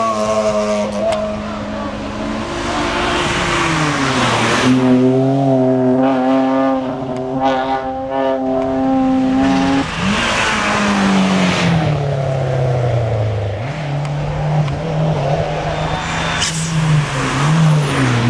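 Racing car engine on a hill climb course, revving hard with its pitch stepping up and down several times as the driver shifts gears and brakes for corners.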